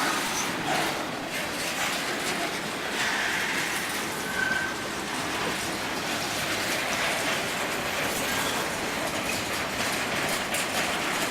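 Freight train's cars rolling slowly past close by, wheels clattering steadily on the rails, with a short high wheel squeal about four seconds in.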